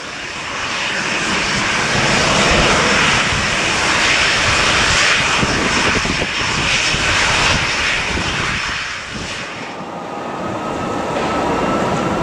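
Airliner's engines as the aircraft passes at an airport: a loud, steady rushing noise that eases about ten seconds in, leaving a fainter engine whine that rises slightly near the end.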